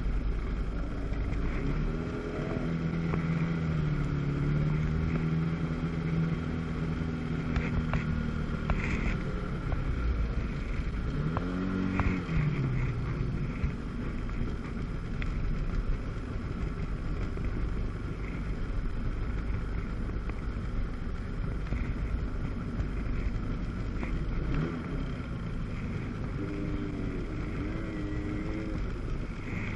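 Jet ski engine running over a steady rush of wind and water. The engine holds a steady pitch for several seconds, rises and falls about twelve seconds in, then wavers again near the end.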